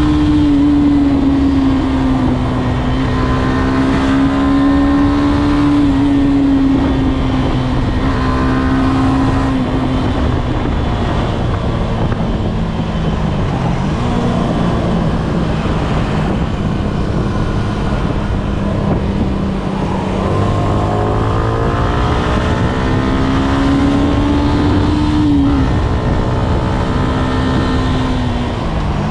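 Yamaha Y15ZR's stock-exhaust 150 cc single-cylinder four-stroke engine running on the move, heard from the rider's seat. Its note climbs and falls with throttle and gear changes, dropping about halfway through and again near the end.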